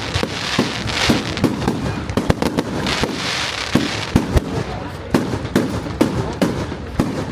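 Fireworks display: a rapid, irregular run of bangs, with two spells of hissing crackle, about a second in and again around three seconds in.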